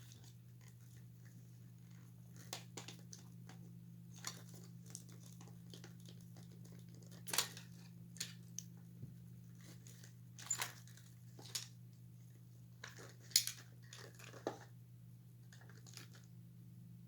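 Scattered small clicks, scrapes and cracks of glued plastic parts being handled and pried apart, the sharpest about seven and thirteen seconds in, over a low steady hum.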